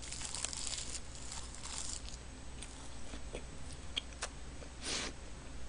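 A person chewing a mouthful of roasted seaweed and rice close to the microphone, with scattered small mouth clicks and a short rustle about five seconds in.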